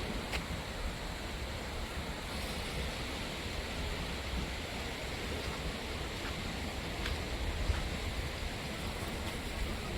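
Steady rushing noise of a shallow stream, with a low rumble of wind on the microphone and a few faint ticks.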